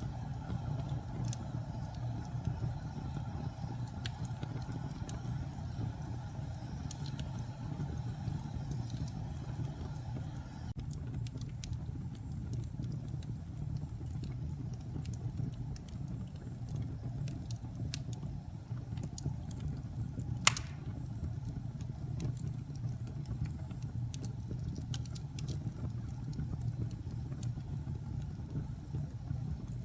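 Wood fire burning in a fireplace: a steady low rumble with scattered small crackles and one louder pop about two-thirds of the way through.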